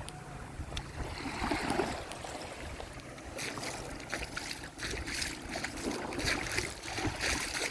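Ocean surf washing on the shore, with wind rumbling on the phone's microphone.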